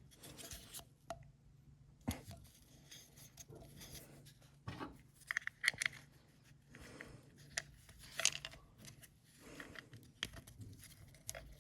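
Faint scattered clicks and rustling of small carburetor parts being handled as the float bowl is fitted back onto a lawnmower carburetor and its screws are put in.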